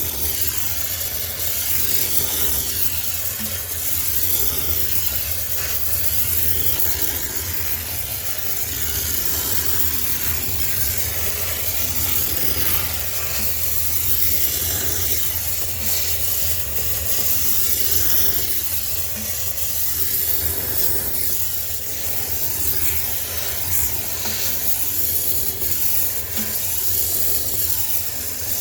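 High-pressure steam cleaner hissing steadily as it is worked over a sneaker washing machine, with a low steady hum underneath.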